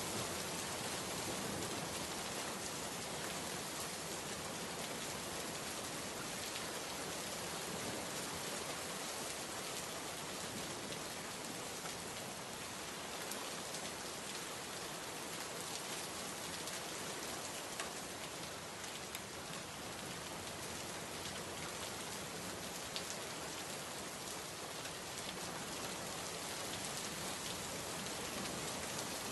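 Steady rain falling on a window, an even hiss of many drops, with a few sharper single drop taps in the second half.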